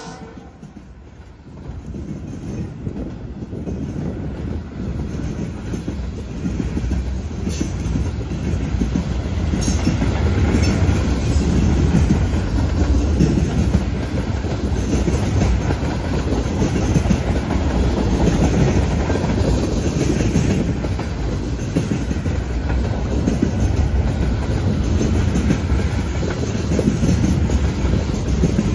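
Freight cars of a passing train rolling by close at hand, with steel wheels clacking over the track and a dense, steady rumble. It grows louder over the first ten seconds or so, then holds.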